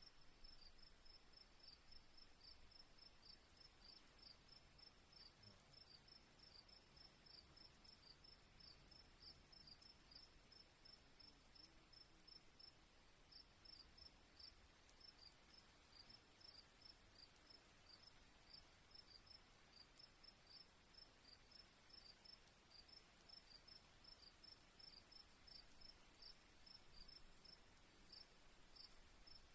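Crickets chirping faintly in a quick, regular rhythm, several chirps a second, over a continuous high, steady insect trill.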